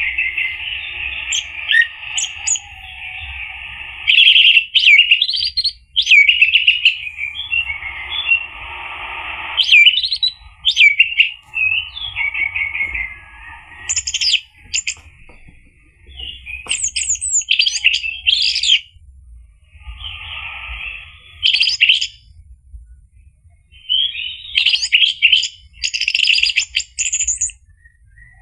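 Orange-headed thrush singing loud, varied, quickly sweeping phrases in repeated short bursts, over a steady noisy background sound that comes and goes in stretches.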